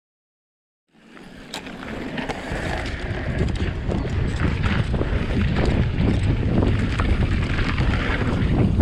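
Wind buffeting the microphone of a camera riding on a moving e-bike, with scattered clicks and rattles from the ride. It fades in about a second in and grows steadily louder.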